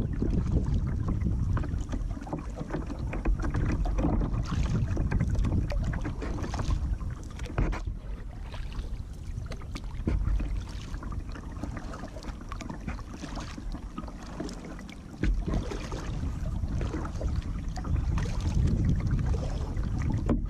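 Kayak paddle strokes dipping and splashing in calm canal water at an irregular, unhurried pace, with wind buffeting the microphone as a steady low rumble.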